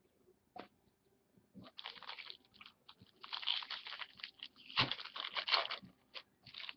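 Crinkling and rustling of a foil trading-card pack wrapper being handled and torn open, in several bursts over a few seconds.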